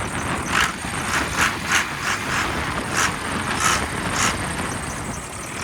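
Dodge Ram 3500's 5.9 Cummins diesel running with the hood up, a steady diesel rumble with a string of short hissing bursts about every half second.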